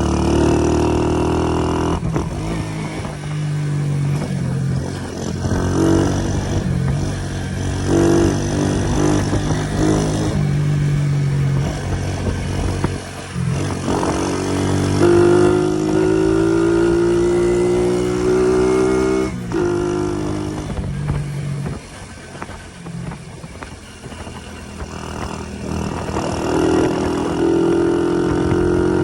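Motorbike engine running under way, its pitch climbing and dropping as the rider opens and eases the throttle. It goes quieter for a few seconds past the middle, then picks up again near the end.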